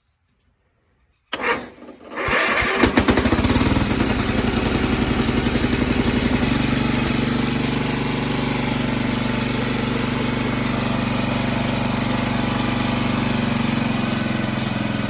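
Riding lawnmower's small engine cold-starting: a brief crank about a second in, then it catches and runs steadily, settling slightly after a few seconds.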